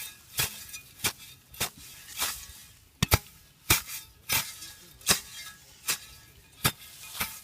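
Steady series of sharp strikes from a hand tool, about one every two-thirds of a second, each a short hard chop.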